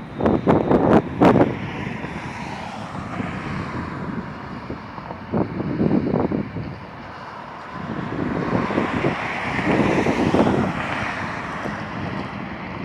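Jet noise of a four-engined Boeing 747-400 coming in to land, a broad hiss that swells to a peak about ten seconds in and then eases. Wind buffets the microphone in the first second or two.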